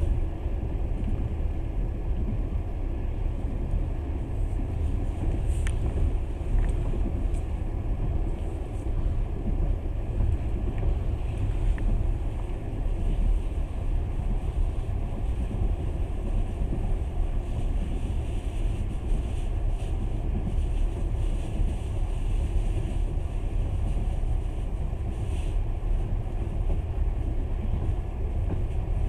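Passenger train running at speed: a steady low rumble of wheels on rails, heard through the carriage window, with a few faint clicks now and then.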